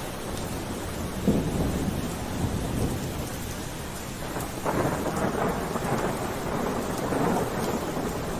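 Steady rain falling, with rumbles of thunder: one swelling about a second in and a longer, louder one from about halfway.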